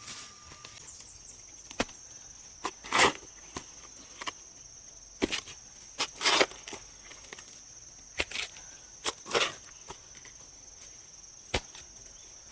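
A dozen or so irregular hand-tool strikes, sharp knocks and a few longer scraping hits like chopping, over a steady high drone of insects.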